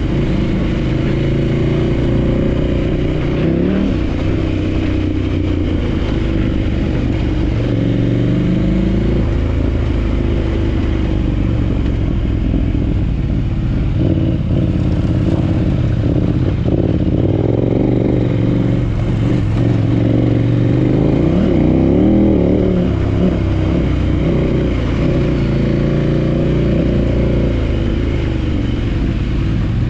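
Adventure motorcycle engine running under way, its pitch rising and falling several times with throttle and gear changes.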